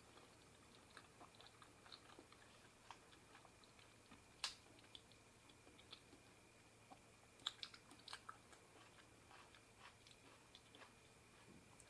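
A person chewing a mouthful of spicy seafood papaya salad, close to the microphone. Faint scattered mouth clicks run throughout, with a sharper click about four and a half seconds in and a few more near eight seconds.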